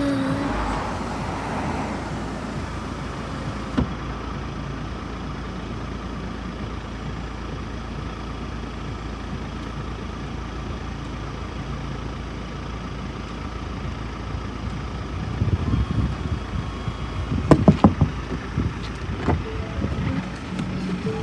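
A vehicle engine runs steadily with a low rumble. A single click comes about four seconds in, and several knocks or thumps follow about three-quarters of the way through.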